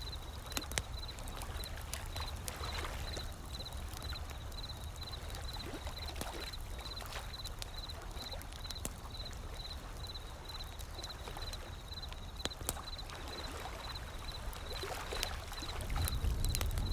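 Wood fire crackling with scattered sharp pops over the low, steady rumble of ocean waves, which swell louder near the end. A faint high chirp repeats evenly about three times a second.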